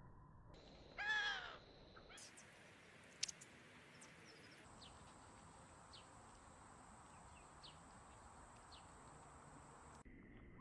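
A crow cawing once, a single harsh call about a second in. Later come a sharp click and a few faint, short, high bird chirps.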